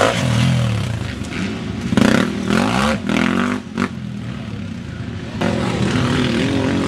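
Dirt bike engine revving, its pitch rising and falling several times as the throttle is worked, loudest about two seconds in, with a few short clattering knocks near the middle.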